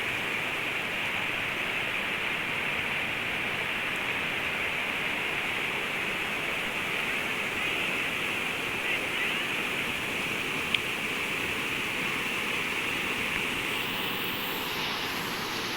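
Floodwater rushing steadily, an even hiss with no letup, with a single sharp click about eleven seconds in.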